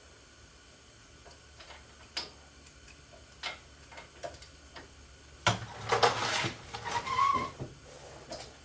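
Socket wrench clicking and metal tool clinks on the brake caliper bolts. Sparse single clicks at first, then busier, louder clicking from about five and a half seconds in.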